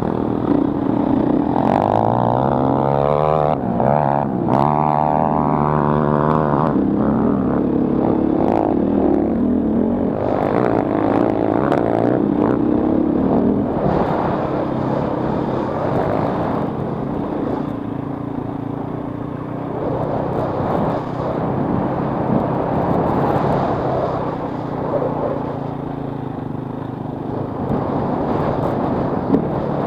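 Dirt bike engines revving at speed, their pitch rising and falling over and over, with two or more engines overlapping in the first several seconds.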